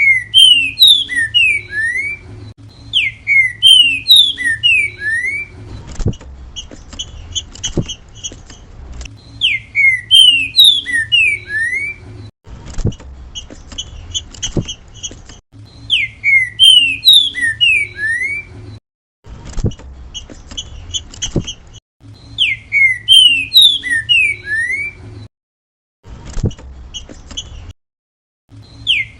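Green-winged saltator (trinca-ferro) singing its 'grego mole boi' song: phrases of clear, sliding whistled notes, repeated several times, with quieter rapid chattering notes between them.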